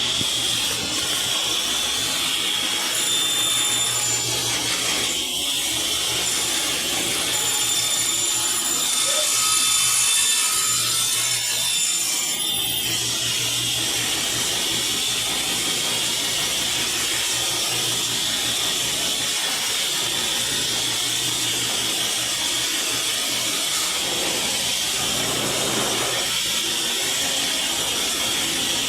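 Power tool cutting MDF board, running steadily, with a thin high whine over the first half.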